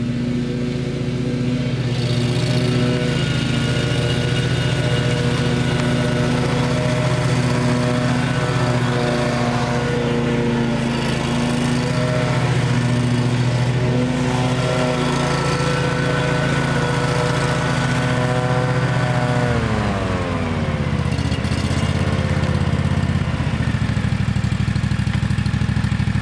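Kawasaki FH541V 17 hp V-twin engine of a Wright 36-inch stander zero-turn mower running steadily at high speed, then throttled down about twenty seconds in, its pitch falling to a lower steady speed.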